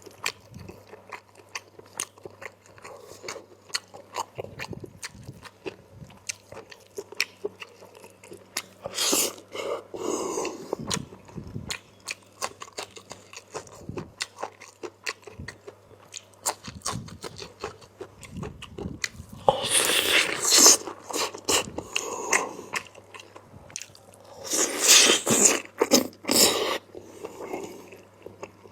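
Close-miked mukbang eating of curry and rice: steady wet chewing and mouth clicks, with three louder spells of noisy eating sounds about 9, 20 and 25 seconds in.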